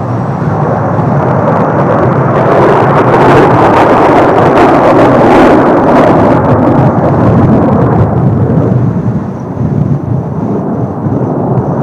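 Jet roar from a formation of Kawasaki T-4 trainers flying a six-ship loop. It swells to a loud peak a few seconds in and then fades as the jets pull away.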